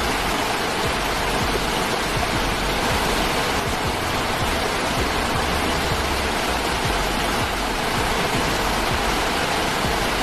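Steady rushing noise with background music underneath, its low bass notes changing every few seconds.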